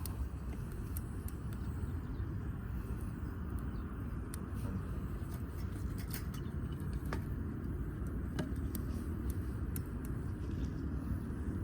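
Damp firewood burning, giving irregular sharp crackles and pops over a steady low rumble.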